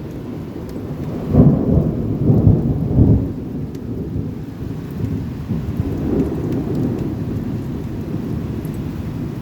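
Thunder rumbling during a rainstorm, with a louder roll about a second in that lasts around two seconds before settling into a steady low rumble; the hiss of rain runs underneath.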